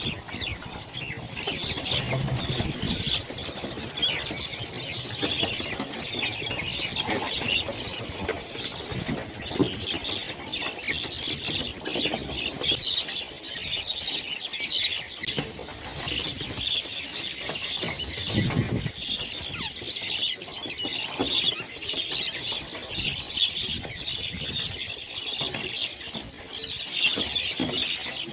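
A flock of small birds chattering together: a dense, continuous mass of many overlapping short high chirps.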